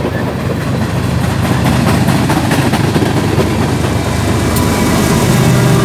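Freight train passing, with the diesel engine of a mid-train distributed-power locomotive running and growing louder toward the end over the rumble of the cars.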